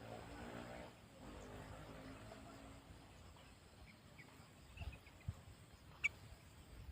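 Sooty-headed bulbul (kutilang) giving a few faint, short chirps, with one sharper note about six seconds in, over a quiet background and a faint low hum in the first two seconds.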